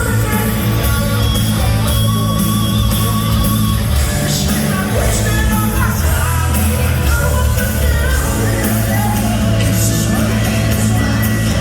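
Live heavy metal band playing in a hall, with a male lead vocalist singing over loud bass, guitars and drums with crashing cymbals.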